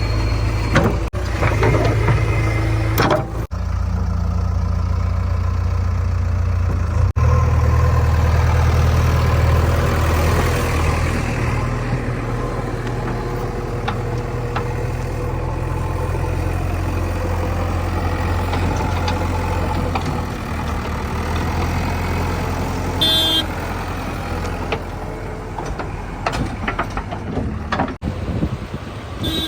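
Heavy diesel engines of a JCB 3DX backhoe loader and a tractor running steadily under load while mud is loaded, a low continuous drone that grows louder about a quarter of the way in. A short high beep sounds about three-quarters of the way through.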